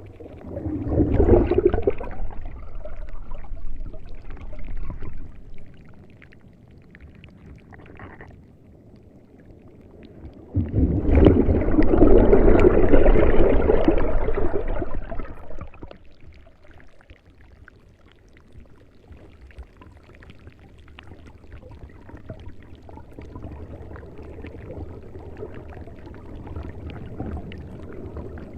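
Water surging and gurgling, swelling into two loud rushes about a second and eleven seconds in, with a quieter steady wash between and after them.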